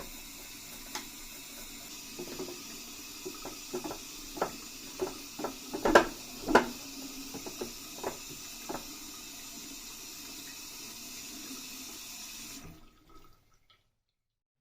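Running water from a tap, a steady hiss, with scattered knocks and bumps as the plastic radio cabinet is handled and scrubbed. The water cuts off about thirteen seconds in.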